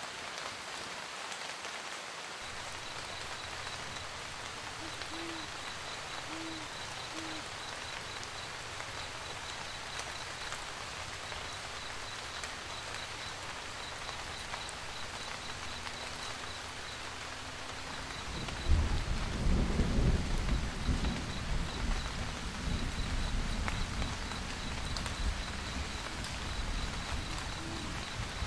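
Steady rain pattering, with three low owl hoots early on and a deep rumble of distant thunder that swells about two-thirds of the way through and rolls on to the end, the loudest sound.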